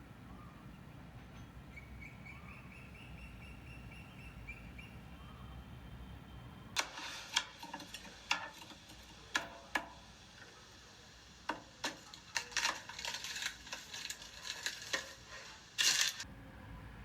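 Quiet room background, then irregular sharp clicks and taps starting about halfway through and coming in clusters, with a short rustling burst near the end.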